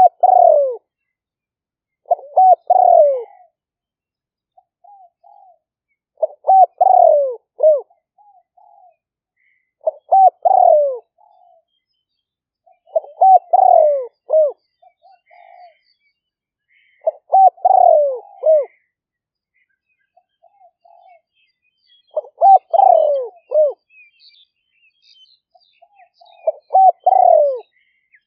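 Decoy spotted dove cooing: a phrase of several falling coos about every four seconds, with a soft single coo between phrases. Faint chirps of other small birds are heard in the second half.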